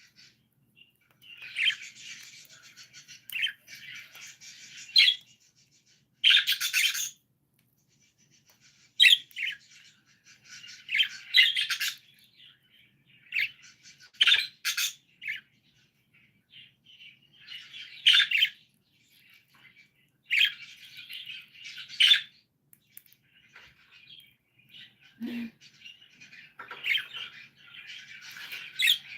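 Pet budgies chirping and chattering in irregular bursts of high warbling, with several sharp, loud chirps scattered through.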